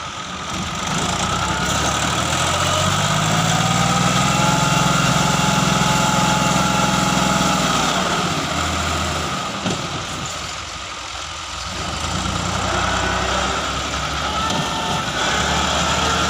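Tractor diesel engine working under load, its revs climbing over the first few seconds and holding high, then falling away about eight seconds in. It drops lower for a couple of seconds and then picks up again near the end.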